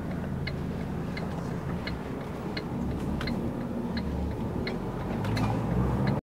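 Truck's turn-signal indicator ticking evenly, about three ticks every two seconds, inside the cab over the low, steady running of the truck's engine, which grows a little louder about five seconds in.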